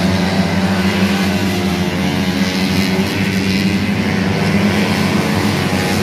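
Small motorcycle engine running at a steady speed during a tune-up.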